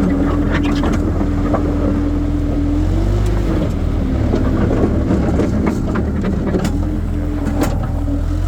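Skid steer loader's engine running steadily under work, with a tone that rises and dips about three seconds in. Scattered sharp knocks and clatter over it.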